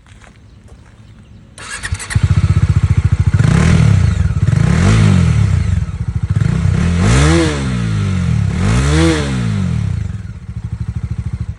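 Single-cylinder motorcycle engine starting about two seconds in, idling, then revved up and let fall back several times, the two biggest revs near the end, before dropping back to idle.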